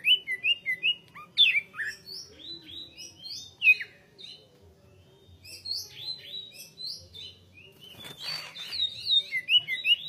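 Cucak hijau (green leafbird) singing a fast, varied song of sliding whistles and chirps in quick phrases with short pauses. A short harsh noise comes about eight seconds in.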